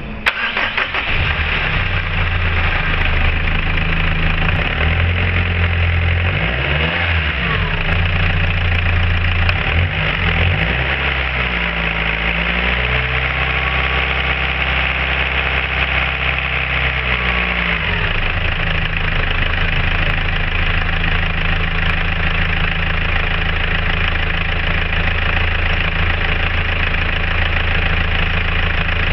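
Peugeot 307's 2.0 HDi four-cylinder turbodiesel starting, then idling. It is revved briefly after a few seconds, then held at raised revs for several seconds in the middle before falling back to a steady idle.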